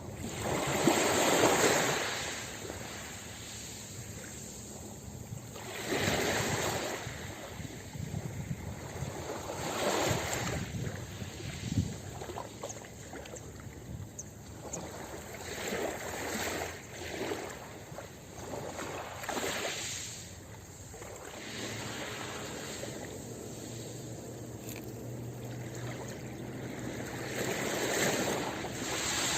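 Ocean waves breaking and washing up a beach: a steady hiss of surf that swells into louder surges every few seconds, the loudest about a second in and another near the end.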